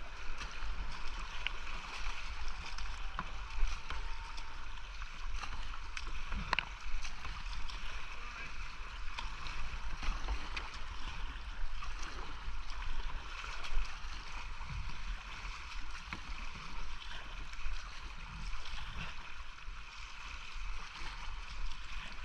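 A whitewater creek rushing around a kayak, with paddle blades splashing in uneven strokes, heard close up through an action camera's microphone with a low rumble of water and wind buffeting.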